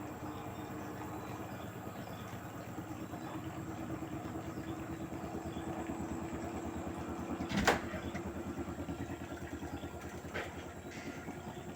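LG direct-drive washing machine running mid-way through a Cotton 60°C cycle: the motor hums steadily with a fast, even pulsing as the drum turns. A sharp knock sounds about two-thirds of the way in, with a lighter one near the end.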